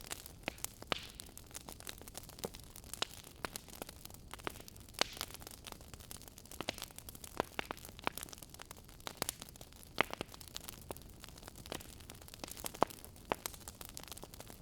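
Wood fire crackling in a fireplace: frequent sharp pops and snaps, a few louder ones, over a soft steady hiss.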